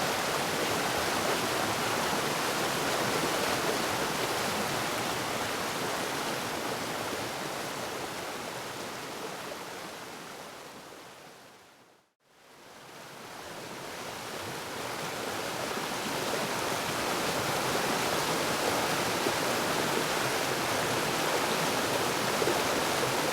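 Waterfall rushing steadily. About halfway through it fades smoothly away to silence and at once fades back up to full.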